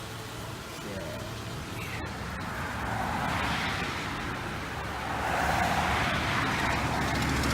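Road traffic noise: a passing vehicle's rushing tyre-and-engine sound swelling from about three seconds in, over a steady low hum.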